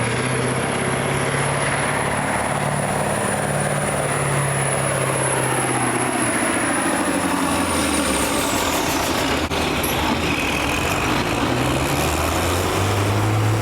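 A pulling vehicle's engine running hard and steady, with a high whine over it that glides down and fades about eight seconds in.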